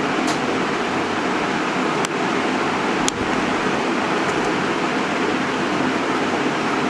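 Steady rushing background noise with two short clicks, about two and three seconds in.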